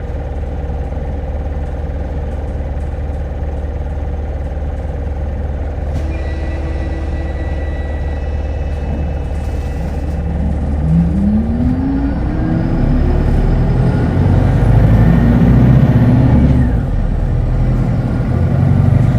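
Hino Blue Ribbon Hybrid city bus heard from inside the cabin: the engine idles steadily. About ten seconds in, the bus pulls away, with a rising whine and the engine growing louder as it accelerates.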